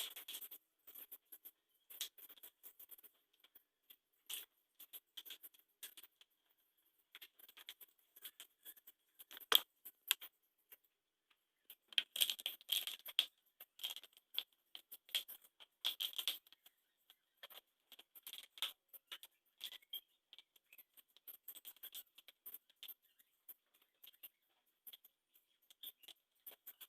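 Scattered light clicks, taps and rattles of household items being handled during cleaning, irregular, with a busier clattering stretch about halfway through and one sharper knock shortly before it.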